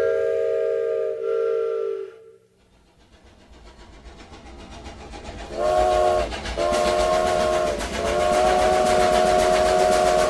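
Train whistle sounding a chord of several steady tones: two blasts, then after a short pause the rising rumble and clatter of a moving train, then three more blasts, the last one long.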